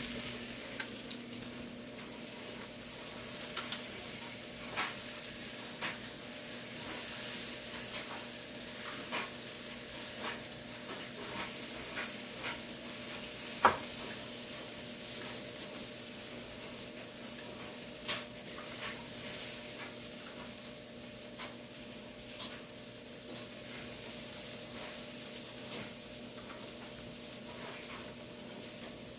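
Food sizzling as it fries: a steady hiss with scattered crackling pops, and one sharp click about fourteen seconds in.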